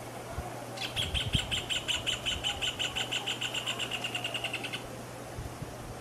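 Rufous hornero singing: a fast, even trill of sharp, ringing notes, about eight a second, lasting some four seconds. The notes quicken slightly and drop a little in pitch toward the end.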